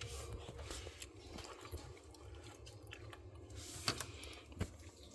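Faint handling noises: scattered small clicks and crunches, with two sharper clicks a little before the end.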